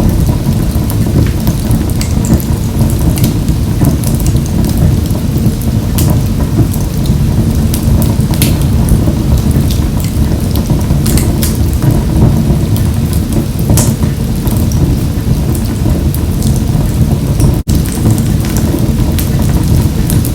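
Wood fire in a wood-burning stove crackling, with scattered sharp pops over a steady low rumble of the burning fire. A split-second dropout breaks the sound near the end.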